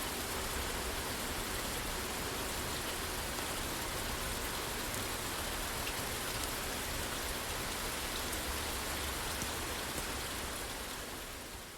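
Steady rain falling on a roof, an even hiss with faint scattered ticks, fading out near the end.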